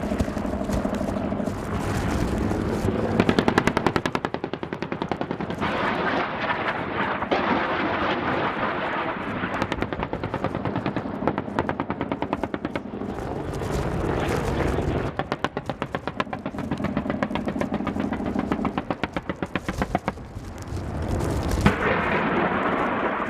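Helicopter-mounted automatic weapons firing long, rapid bursts with short breaks between them, over a steady engine hum.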